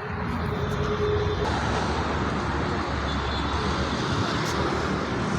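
Steady motor-vehicle noise, a dense rumbling hiss that brightens slightly about a second and a half in.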